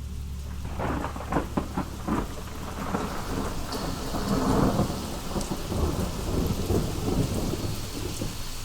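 Thunderstorm: rain falling, with a crackling thunderclap about a second in that rolls into a long rumble and fades, over a low steady hum.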